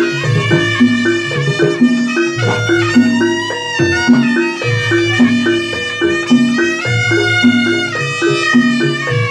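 Live East Javanese jaranan ensemble music: a held, pitched melody line over a repeating low note pattern with percussion, keeping a steady beat.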